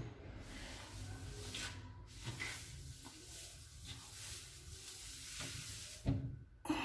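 Scrubbing a dirty floor with a soapy cleaner: a steady hiss of rubbing, with a louder knock about six seconds in.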